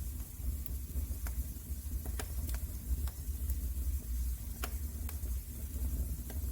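Wood fire in a fireplace crackling: scattered sharp pops and snaps, about five or six in a few seconds, over a steady low rumble of the burning fire.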